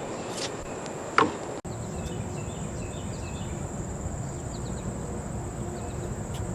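Steady high-pitched insect trill, crickets, with two sharp knocks about half a second and just over a second in.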